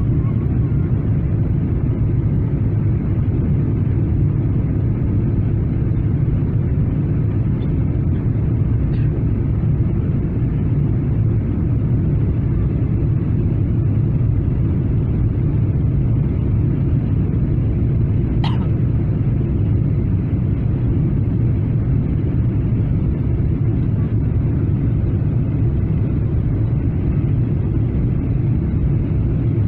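Steady low cabin drone of a Boeing 777-300ER airliner, engine and airflow noise heard from inside the passenger cabin, with one brief tick about eighteen seconds in.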